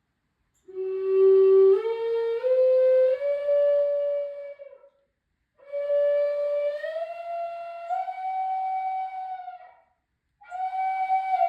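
A flute-like wind instrument playing slow phrases of long held notes that climb step by step in pitch, with brief pauses between phrases; a new phrase begins near the end.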